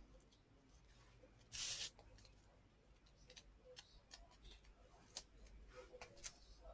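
Near silence with faint handling of craft supplies: a brief soft rustle about one and a half seconds in, then scattered light ticks and clicks.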